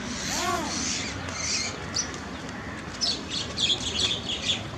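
Birds chirping: a run of short, high chirps, most of them in the second half, with one short call that rises and falls about half a second in.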